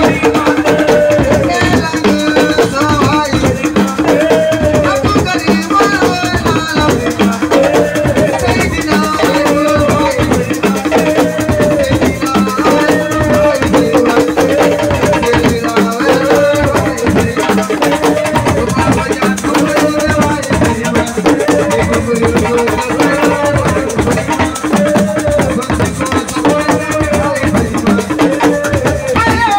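Senegalese assiko (siko) band music played live: dense hand drumming and shaken rattles under a short melodic phrase that repeats about every two seconds.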